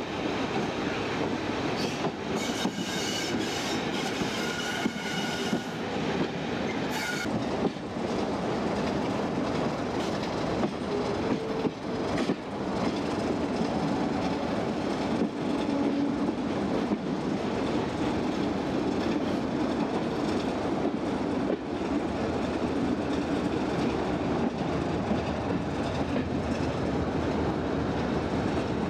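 Passenger train running on the rails, heard from a carriage window, with clicking over rail joints. A high metallic wheel squeal comes in about two seconds in and stops after about seven seconds.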